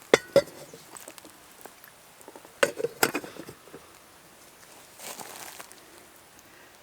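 Two pairs of sharp knocks or clinks, one right at the start and one near three seconds in, each with a brief ringing tail, then a short soft rustle around five seconds.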